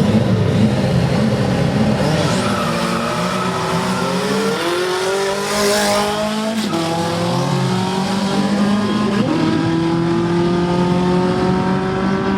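Drag racing cars running at full throttle: engine pitch climbs for a few seconds, holds, then steps up again about nine seconds in, with tyre squeal.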